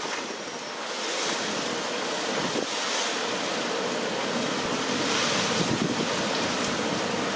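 Typhoon winds gusting hard, a dense rushing noise that surges in waves, with wind buffeting the microphone. It grows louder about a second in, with strong gusts a few seconds later.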